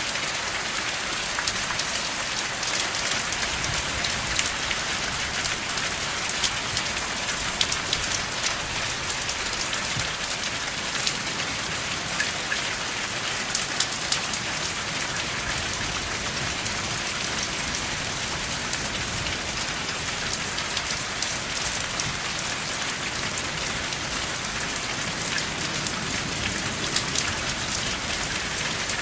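Steady rain falling with no thunder: a dense, even hiss with many sharper drops pattering through it.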